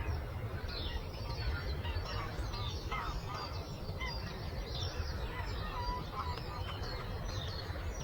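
A chorus of many birds chirping and singing in short overlapping calls, over a steady low rumble.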